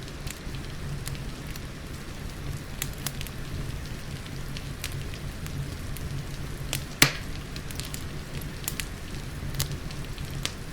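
Wood fire crackling with scattered sharp pops, one much louder pop about seven seconds in, over a steady hiss of rain.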